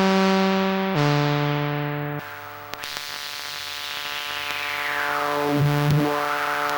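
DIY analog synthesizer playing sustained notes that step down in pitch about one and two seconds in, with hiss from its white noise generator mixed in. A resonant filter then sweeps down through the noise and back up.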